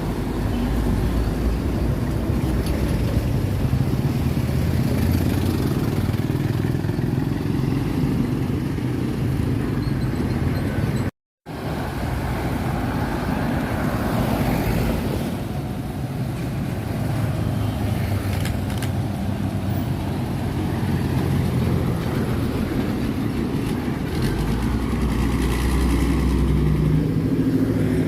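Road traffic with trucks passing, their engines droning over tyre noise. The sound drops out briefly about eleven seconds in, and a deeper engine drone builds near the end as a heavier vehicle comes close.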